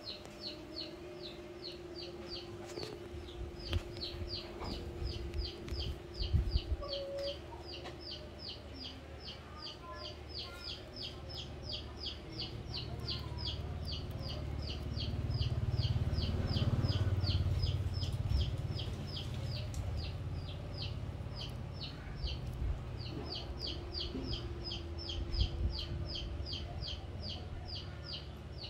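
A bird chirping in a rapid, even series of short, high, falling notes, pausing briefly twice. A low rumble swells in the middle.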